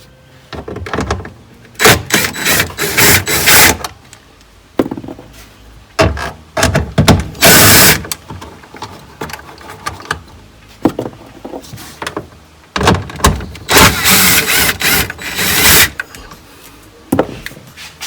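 A tool working the fasteners of a car tail light, in three main bursts of about two seconds each, with short clicks and pauses between them.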